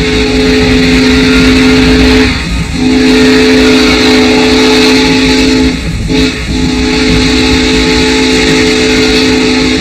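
Steam whistle sounding a steady chord in three long blasts, with short breaks between them, over a constant rumble and hiss.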